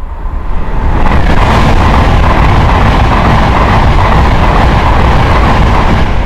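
Train passing close by at speed: a loud rushing rumble that swells over about the first second, holds steady, and eases off near the end.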